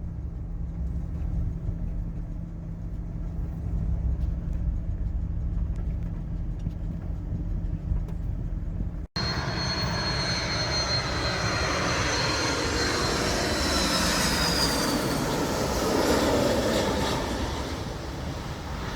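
A low steady rumble, then, after a sudden cut about nine seconds in, a jet airliner passing low overhead on its landing approach: a wide roar with a high turbine whine that slowly falls in pitch as the roar swells and fades.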